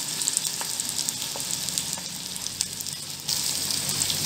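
Onion petals sizzling in hot oil in a metal kadai on a medium flame, with a spatula now and then clicking against the pan as they are stirred. They are fried briefly so the raw taste goes.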